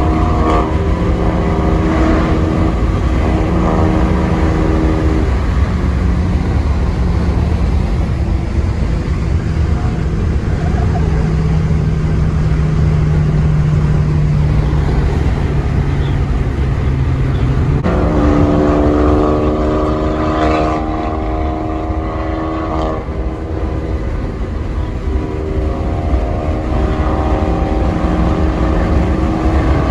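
A car's engine droning steadily under road noise, heard from inside the cabin while cruising. About 18 seconds in, the engine note steps up in pitch and gets fuller.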